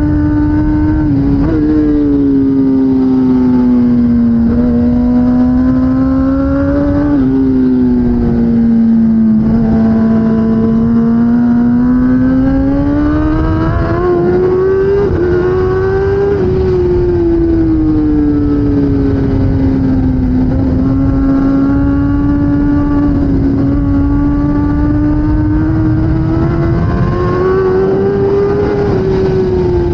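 Kawasaki ZX-10R superbike's inline-four engine running hard under racing throttle. Its pitch drops abruptly three times in the first seven seconds or so, then rises and falls slowly as the revs build and ease off.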